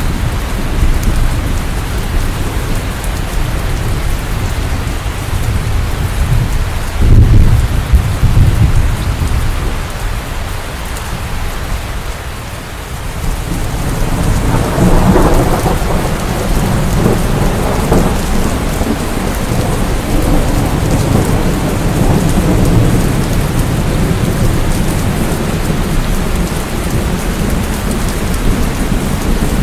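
Steady heavy rain with thunder: a sudden loud clap about seven seconds in, then a long rolling rumble that swells from about halfway and carries on.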